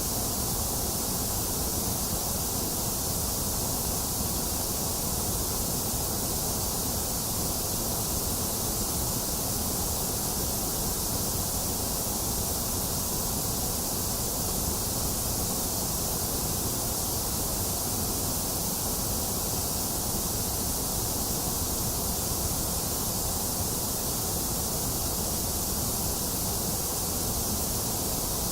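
Box fan running steadily mixed with falling rain, with no thunder: an even, unchanging hiss with a low whoosh underneath.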